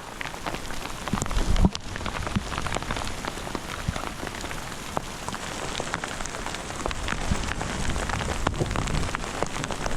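Hail and graupel pelting down in a dense, continuous patter of many small hits, with a few louder low thumps among them.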